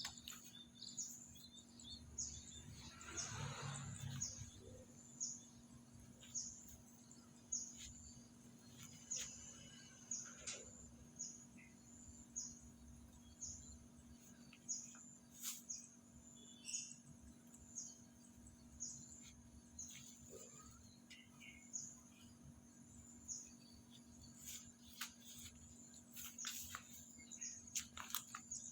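A bird giving short, high chirps, each sliding down in pitch, repeated about once a second. There are a few sharp clicks, and a brief rustle a few seconds in.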